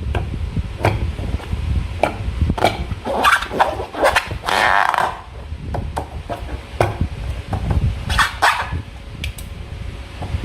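Hands working slime: an irregular run of wet squelches and air-pocket pops, with the longest squelch about halfway through and another cluster near the end, over a low handling rumble.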